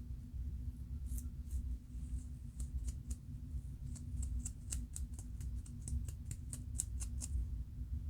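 Scalp being scratched through locs to loosen dandruff flakes: a run of short, crisp scratching strokes that come faster and closer together about halfway through and stop shortly before the end, over a low steady hum.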